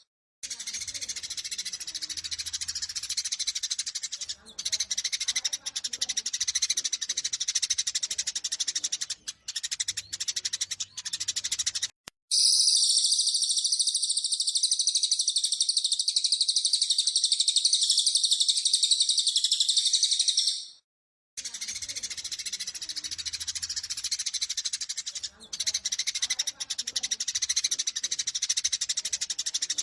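Eurasian tree sparrows chattering in fast, excited chirps, their agitated fighting call. About twelve seconds in this gives way to eight seconds of a louder, unbroken high trill, then the sparrow chatter resumes.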